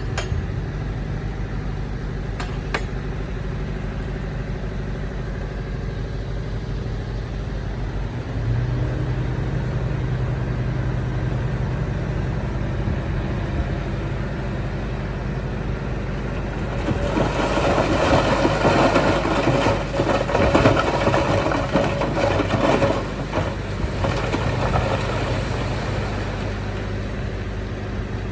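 Heavy diesel engine of earthmoving machinery running steadily, stepping up a little in level about eight seconds in. From about 17 s a louder, rougher stretch of clattering and scraping lasts about six seconds, then the engine carries on steadily.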